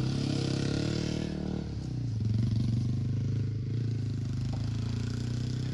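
Truck engine running steadily with a low hum, its pitch dipping briefly and shifting about a second and a half in.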